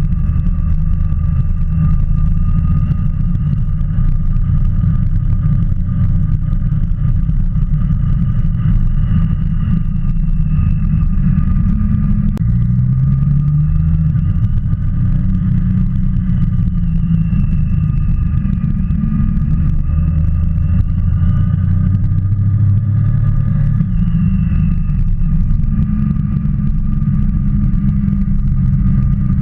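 Motorcycle engine running under way, a heavy low rumble whose pitch rises and falls several times with the throttle as the bike rides along.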